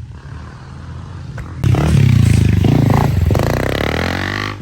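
A dirt bike with an FMF aftermarket exhaust goes past close by at high revs. It is very loud, coming in sharply about one and a half seconds in, rising and falling in pitch with the throttle, and dropping away suddenly near the end.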